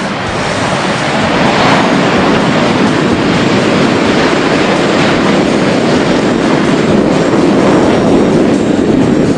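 Loud roar of Blue Angels F/A-18 jet engines passing overhead, swelling over the first couple of seconds and then holding steady.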